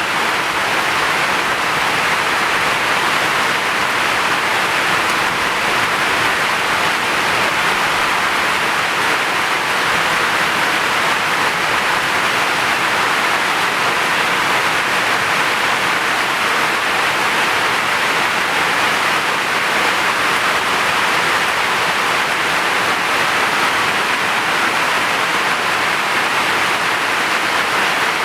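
Heavy rain falling steadily, an even hiss of rain with no breaks or thunder.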